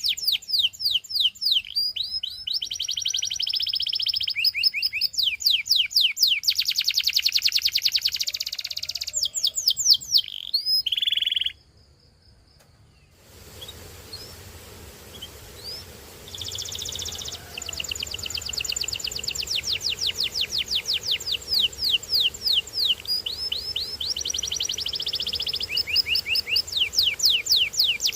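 Domestic canary singing: fast trills of rapidly repeated notes and quick sweeping notes, one phrase running into the next. The song stops for about two seconds near the middle, then resumes over a faint hiss.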